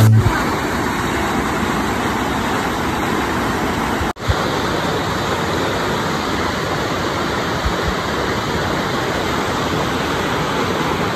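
Waterfall, its water falling and rushing in a steady, even roar, with a brief break about four seconds in.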